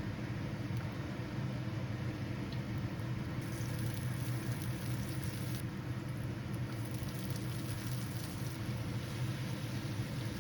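Steady hum of a running motor with an even hiss over it, like a kitchen extractor fan running while food cooks.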